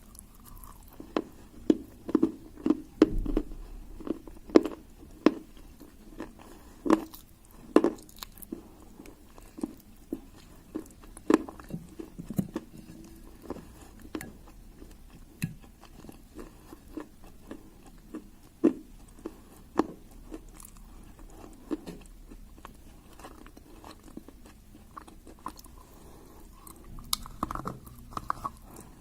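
A person biting and chewing hard clay, with sharp, irregular crunches that come thick and fast through the first dozen seconds and grow sparser after that.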